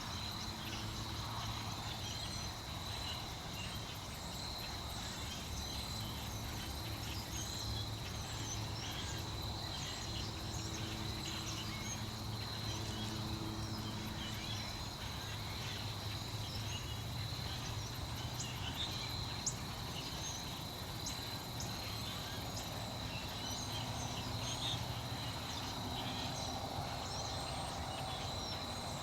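Insects trilling in one steady, continuous high tone, with faint short chirps scattered over it and a low background rumble underneath.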